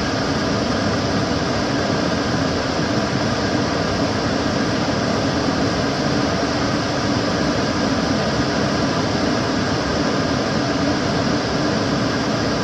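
Kitchen cooker hood extractor fan running steadily: an even rushing of air with a low hum and no change in speed.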